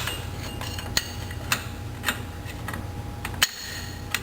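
Metal drum-brake parts and hand tools clinking and clicking as they are handled: about half a dozen sharp, irregular clicks, the loudest about three and a half seconds in, over a steady low hum.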